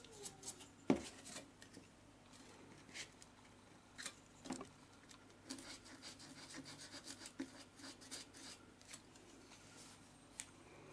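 Faint rubbing, scratching and small taps of a pencil and ruler being handled and drawn across a styrofoam sheet while measurements are marked. The taps are scattered, with a run of small ticks in the middle.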